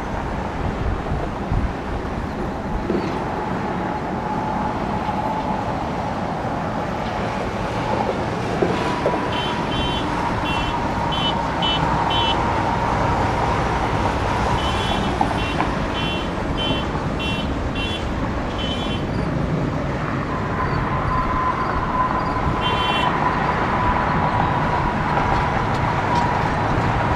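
Boeing 737-800's CFM56 jet engines running on departure: a steady rush with a whine, growing a little louder about twenty seconds in. Clusters of short high-pitched chirps come and go over it.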